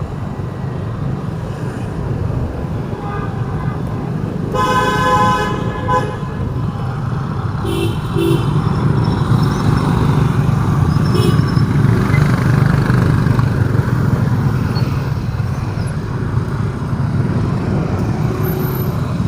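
City street traffic with a steady rumble of engines and tyres, and vehicle horns honking. A long honk comes about five seconds in, then two short beeps around eight seconds and another brief toot a few seconds later.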